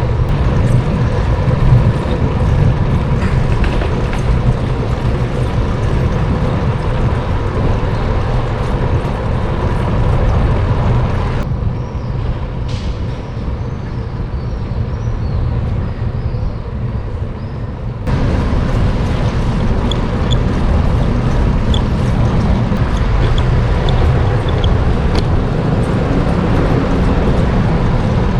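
Steady wind rumble and road noise from riding a bicycle through city traffic. The sound turns duller and a little quieter for about six seconds midway, then comes back.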